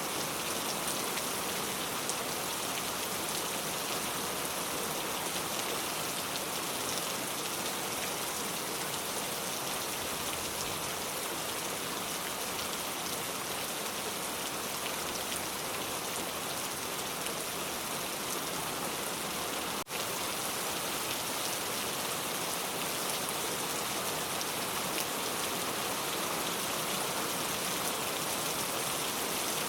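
Steady rain falling, an even hiss of many small drops, with a momentary dropout about two-thirds of the way through.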